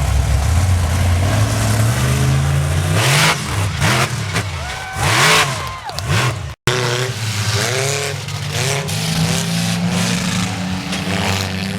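Monster truck engine revving hard, its pitch rising and falling over and over, with a couple of louder surges in the first half. The sound cuts out for an instant about two-thirds through.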